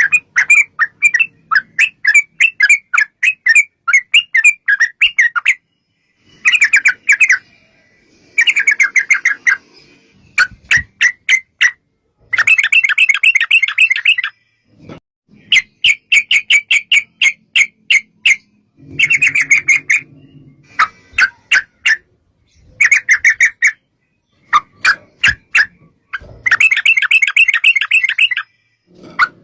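Yellow-vented bulbul (trucukan) calling in rapid rattling runs of sharp, bubbling notes, about eight to ten a second, in repeated bursts of one to two seconds with short pauses: the long rolling 'ropel' song used as a lure to make other trucukan answer.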